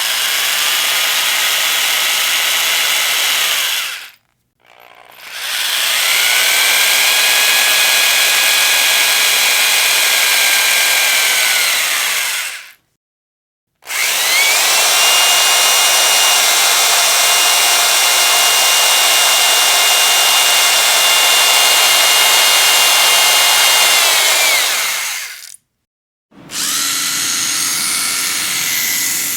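Electric power drill running in repeated bursts with short silences between. Each run spins up with a rising whine, holds steady at high speed and winds down. There are four runs, the longest about eleven seconds, and the last one has a rougher, different tone.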